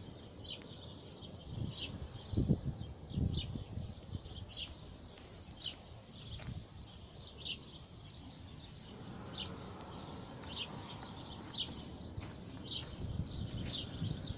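Small birds chirping, short high notes about once or twice a second, over faint outdoor hiss. Two dull low thumps come about two and three seconds in.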